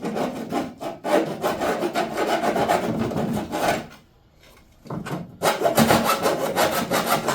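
Hand file rasping on metal in quick back-and-forth strokes, filing down a protruding metal part on a lawn tractor's hood. The strokes stop briefly about four seconds in, then resume.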